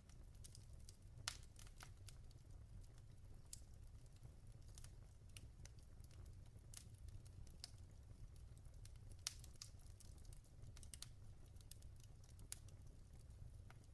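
Wood logs burning in a fireplace, crackling faintly with irregular small pops and snaps over a low steady rumble.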